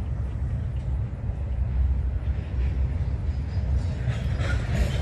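Freight train rolling past with a steady low rumble, and a burst of higher rattling and squealing from the wheels and cars near the end.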